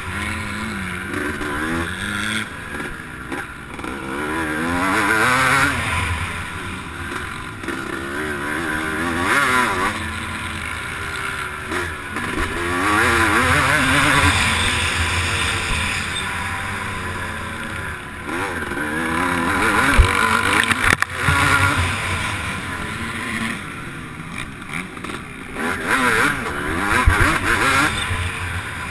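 Motocross bike engine running hard, its pitch rising and falling over and over as the throttle is worked, with rushing wind noise. A couple of sharp knocks come about two thirds of the way through.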